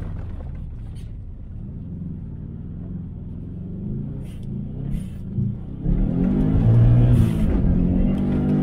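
Subaru Impreza WRX GC8's turbocharged flat-four, heard from inside the cabin, running at low revs with a few light clicks, then revving up and pulling hard about six seconds in. A brief hiss comes near the peak.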